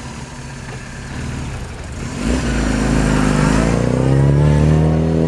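A car engine accelerating: it grows loud about two seconds in and its pitch rises as it revs up, then holds.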